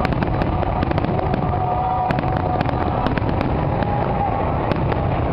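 Fireworks display: aerial shells bursting in a dense, irregular run of sharp cracks and bangs, with crackling stars going off in quick succession.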